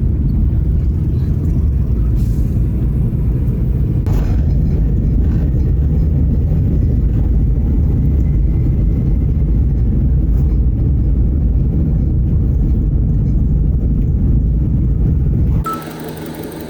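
Steady low rumble of a car driving along a road, engine and road noise heard from the moving vehicle. Near the end it cuts off suddenly to a quieter, even engine hum.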